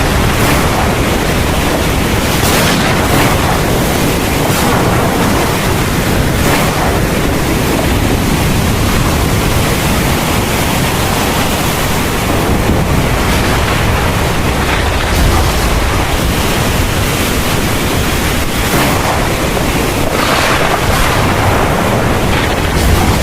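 Heavy thunderstorm rain pouring steadily, a dense even hiss with a constant low rumble underneath.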